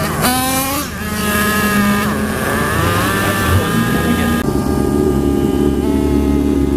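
A vehicle engine running. It revs up quickly at the start, holds, rises gently again around the middle, then settles to a lower steady hum.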